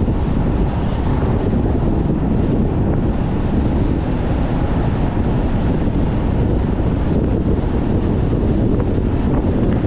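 Strong wind buffeting the microphone of a moving car: a loud, steady, low rumble of wind noise over the car's running and road noise.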